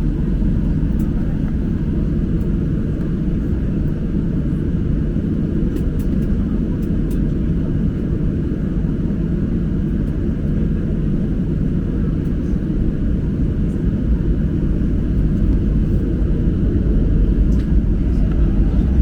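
Steady engine and airflow drone of a Boeing 737-800 heard from inside the passenger cabin, a deep unbroken rumble that grows slightly louder near the end.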